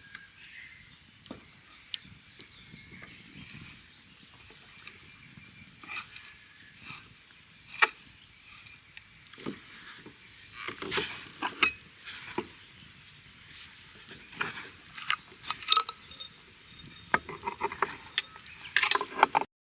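Scattered clicks, knocks and light clinks of camping gear being handled, busier in the second half, cutting off suddenly near the end.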